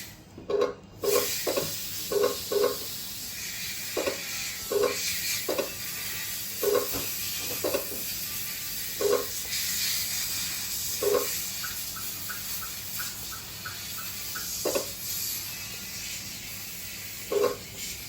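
Short electronic beeps at one pitch, some in quick pairs and some on their own, over a steady hiss. A run of about eight faint, quick ticks comes about two-thirds of the way in.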